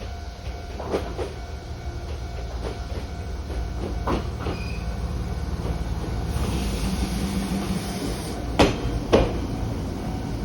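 A Chichibu Main Line train running past with a steady low rumble, scattered light clicks from the wheels, and two loud clacks about half a second apart near the end.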